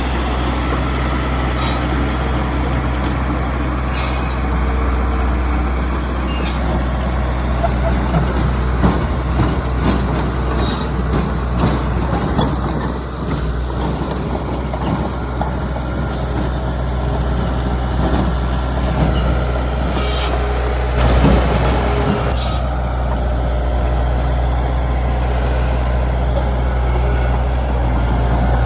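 Heavy diesel engines of a bulldozer and dump trucks running steadily, with scattered metallic clanks and short hisses. A louder noisy burst comes about two-thirds of the way through.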